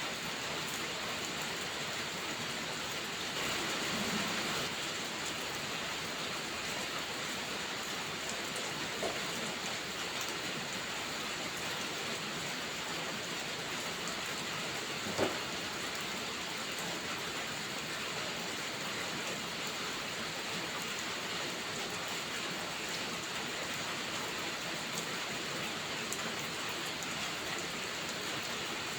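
Steady rainfall, a constant even hiss, with a few isolated sharp pops, the loudest about halfway through.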